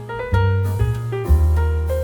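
Background piano music: a gentle melody of single notes over sustained low bass notes.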